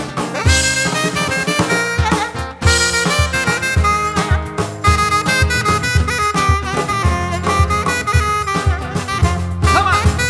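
Live band playing an instrumental passage of a pop-Latin cover medley: a sustained lead melody line over a steady drum beat and bass.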